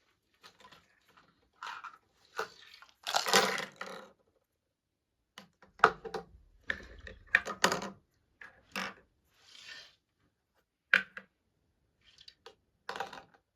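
Irregular clicks, knocks and clatter of kitchen things being handled, coming in scattered clusters with pauses between them.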